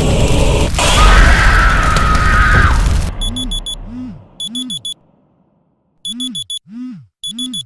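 Loud horror-film sound effects, a deep rumbling boom with a held shrill tone over it, cutting off abruptly about three seconds in. Then a smartphone alarm goes off, beeping in quick bursts of four with low swooping tones between the bursts.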